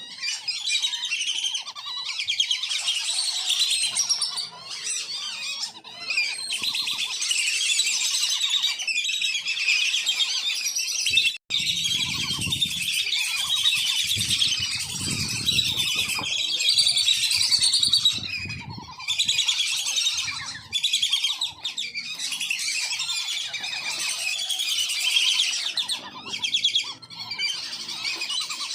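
A flock of wandering whistling ducks (belibis kembang) giving continuous high, whistling calls, many birds calling over one another. There is a sharp click about eleven seconds in, followed by a low rumble for several seconds.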